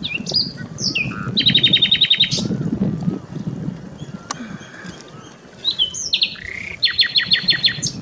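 A bird singing two phrases about five seconds apart, each a few quick sliding notes followed by a fast, even trill of about ten repeated notes, over a steady low background rumble.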